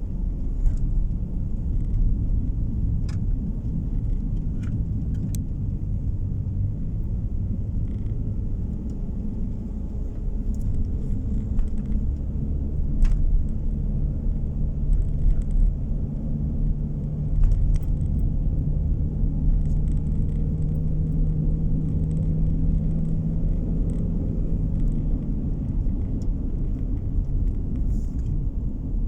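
Car driving along a road, heard from inside the cabin: a steady low rumble of tyre and road noise, with a steady engine drone through the middle stretch and a few light ticks.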